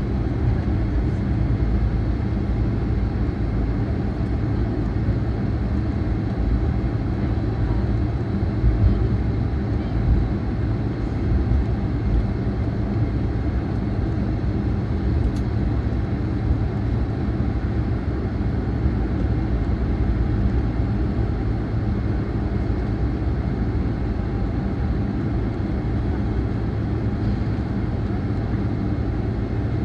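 Steady low rumble of cabin noise inside a jet airliner after landing, from its engines and air systems, with a few small bumps.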